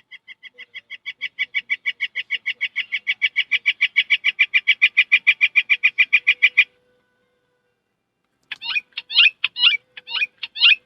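A person imitating bird calls: a long, even trill of about seven notes a second that grows louder for nearly seven seconds and stops. After a short pause comes a quick run of sharp, high chirps.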